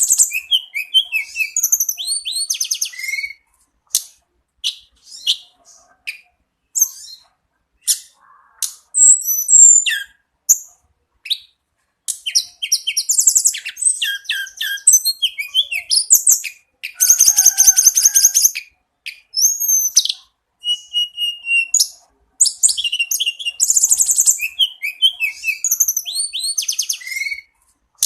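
Tledekan gunung singing persistently: long runs of fast, high-pitched twittering phrases with quick trills and whistled notes, broken by short pauses filled with scattered single calls.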